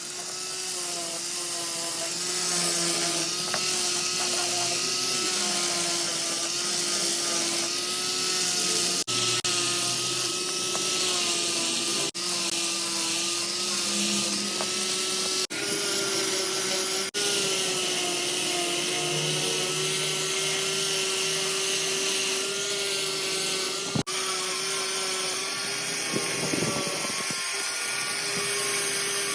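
An electric power tool running steadily, working wood or metal, with a motor whine that holds a near-constant pitch and a hiss over it, broken by a few brief dropouts.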